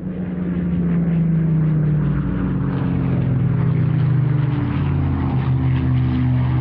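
V-12 piston engines of Battle of Britain Memorial Flight fighters, a Hurricane and Spitfire, passing low and loud. The engine note swells in at the start and then slides gradually lower in pitch as they go by.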